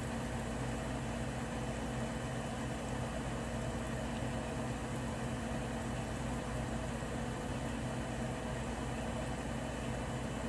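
Bosch Serie 4 front-loading washing machine running mid-cycle on a 90-degree cotton wash: a steady machine hum with a few low steady tones and an even hiss, unchanging throughout.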